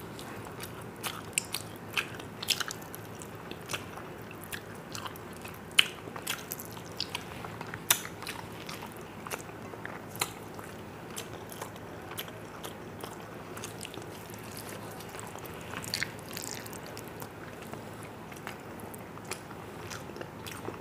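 Close-miked chewing and lip smacking from a person eating rice, with fingers squishing food on a steel plate. Many short wet clicks come at irregular times, thickest in the first half.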